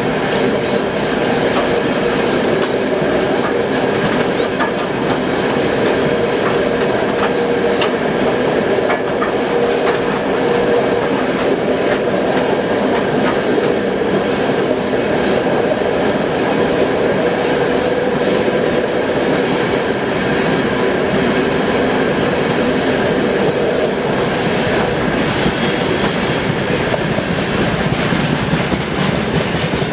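Freight train wagons rolling past, their wheels clacking rhythmically over the rail joints. A steady whine runs through roughly the first half.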